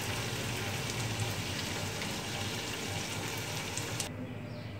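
Steady hiss of food sizzling, cut off suddenly about four seconds in.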